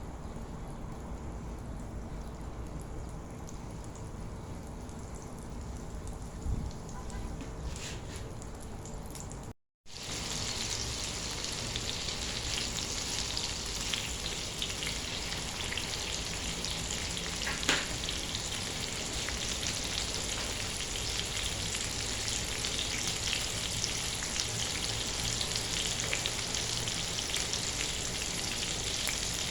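Chicken frying in a pan with a steady, dense sizzle that starts after a brief dropout about ten seconds in. Before that there is only a quieter low hum.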